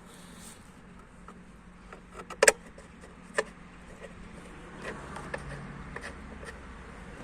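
Scattered sharp clicks and knocks of hand work on car parts, the loudest a quick double knock about two and a half seconds in and another a second later, with lighter clicks near the end, over a steady low hum.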